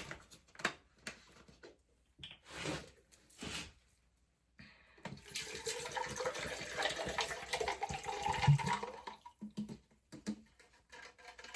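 Water poured from a bottle into a container holding ice: a few short knocks and clicks of handling, then a steady splashing pour lasting about four seconds, starting about five seconds in.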